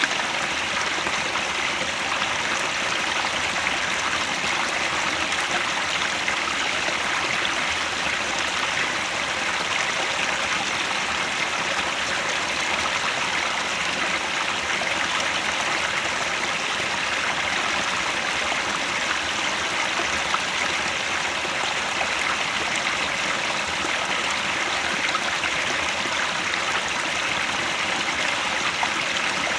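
Mountain headwater stream flowing steadily over rocks, an even rushing and babbling with no pauses.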